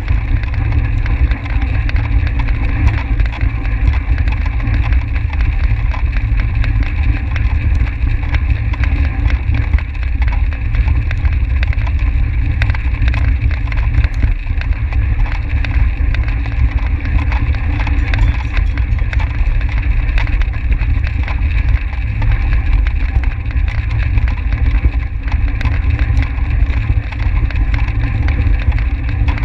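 Wind rushing over a microphone on a track bicycle ridden at race speed: a loud, steady low rumble with a hiss above it.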